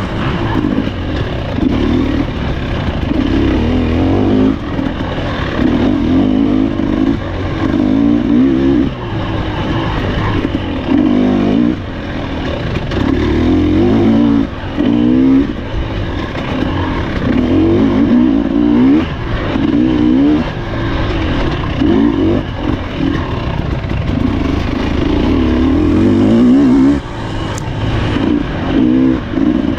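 Husqvarna TE300 two-stroke dirt bike engine being ridden hard off-road, revving up in short rising pulls and dropping back again and again as the throttle is opened and closed.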